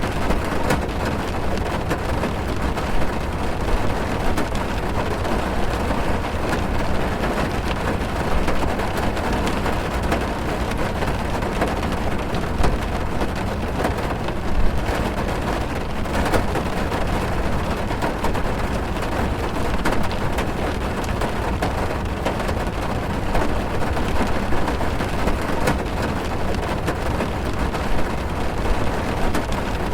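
Steady heavy rain drumming on a car's roof and windows, heard from inside the car, with a constant patter of fine sharp drop ticks over a deep rumble.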